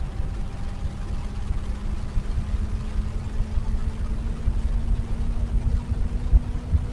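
Wind buffeting the microphone on a moving Benelli BN600i motorcycle, louder than the exhaust. Underneath, the inline-four engine runs with a steady tone that rises slightly in pitch.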